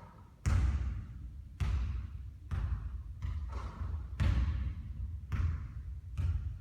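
Basketball bouncing on a court: about seven loud thuds at uneven intervals, starting about half a second in.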